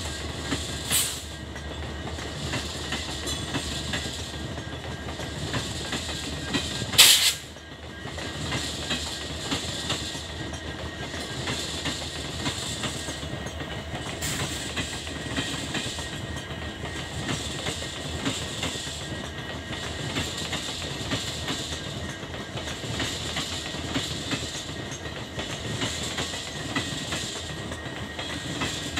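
Passenger train coaches rolling out of the station, their wheels clacking over the rail joints in a steady repeating rhythm over a continuous rumble. A sharp, loud burst of noise breaks in briefly about seven seconds in.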